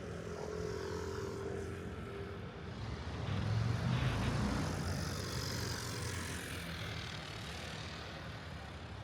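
A vehicle passing by, swelling to a peak about four seconds in and fading away again over the steady hum of the city.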